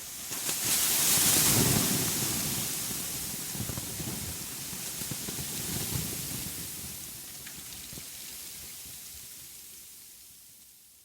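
Wind rushing with a gusty low rumble, swelling about a second in and then slowly fading out.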